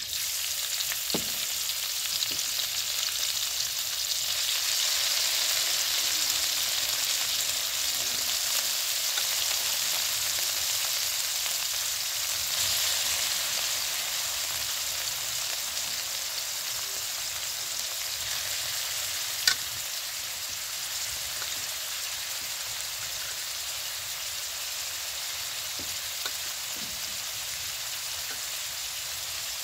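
Sliced pork frying in hot oil with garlic and chilies in a wok: a sizzle that starts suddenly as the meat goes in, then carries on steadily and eases slightly. A single sharp click about twenty seconds in.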